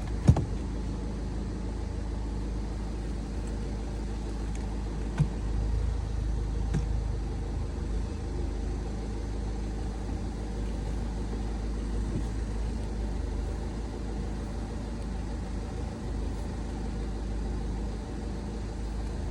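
Car engine idling steadily, with a sharp click shortly after the start and a couple of fainter clicks a few seconds later.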